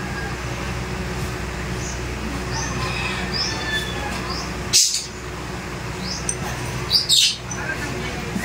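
Small birds chirping now and then over a steady low hum. Two brief, louder noisy sounds come about five and seven seconds in.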